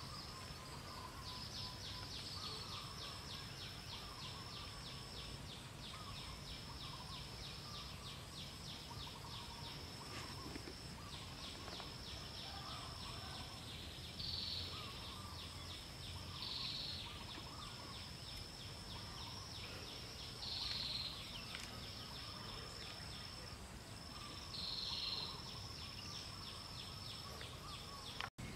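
Faint outdoor nature ambience: a high-pitched insect trill in long pulsing runs broken by short gaps, with faint bird chirps underneath and a few louder short calls.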